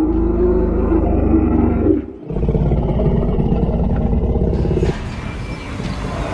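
Synthetic dinosaur roar sound effect: two long, deep roars, one straight after the other with a short break between, the second fading to a quieter sound near the end.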